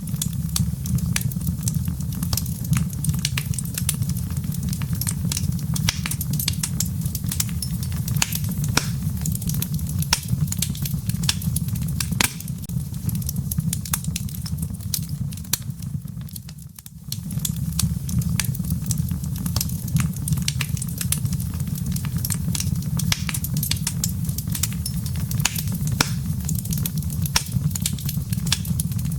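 Wood logs burning in a fireplace: many sharp crackles and pops over a steady low rush of flames. The low rush briefly drops away a little past halfway, then returns.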